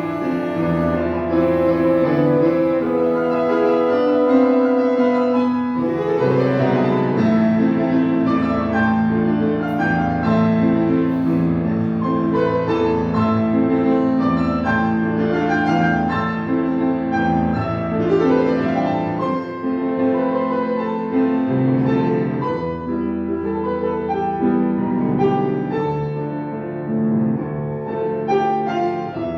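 Bassoon playing a melodic line with piano accompaniment in classical music: held notes first, then a busier passage of moving notes from about six seconds in.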